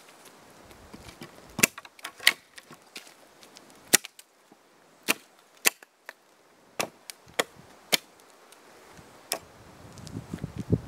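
An axe chopping the branches off a piece of jack pine: about nine sharp, separate blows at irregular intervals, each a crisp knock into the wood.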